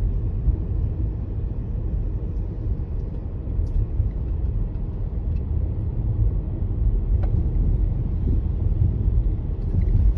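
Steady low rumble of a car on the move, with a few faint short ticks a few seconds apart.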